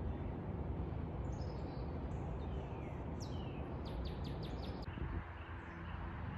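Wild birds singing: scattered high chirps and falling whistled notes, then a quick run of about six falling notes around four seconds in, over a steady low outdoor rumble.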